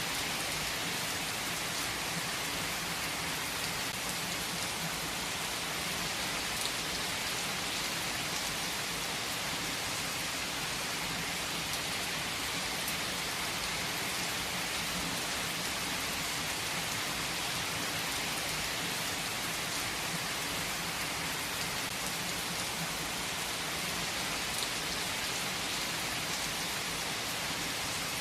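Heavy rain falling steadily: an even, unbroken wash of drops, strongest in the upper range.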